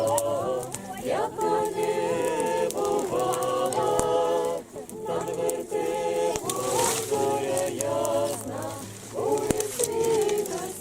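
A small group of voices singing a song together, unaccompanied, in long held notes with short breaks between phrases.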